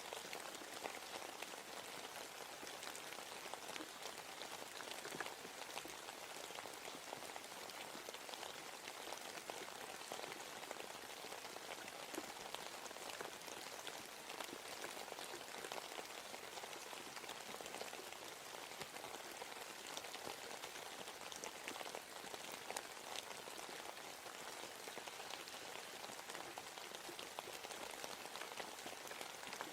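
Steady rain falling in a forest, a dense patter of many small drops hitting leaves and the ground.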